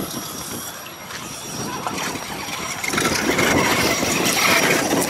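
Radio-controlled scale crawler driving over rough ground, its electric motor and drivetrain running, louder from about three seconds in.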